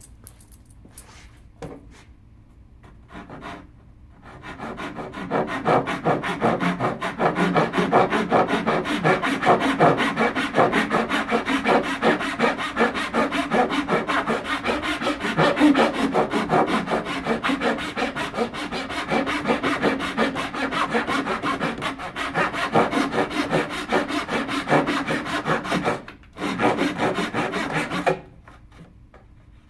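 Wood being worked by hand with quick back-and-forth rubbing strokes, like sawing or rasping. The strokes start about four seconds in, pause briefly near the end, then stop shortly before it.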